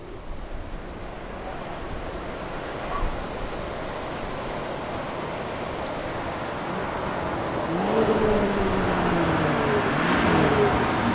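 Steady road and wind noise as a car approaches. In the last few seconds it passes by: its engine note falls in pitch and the sound builds.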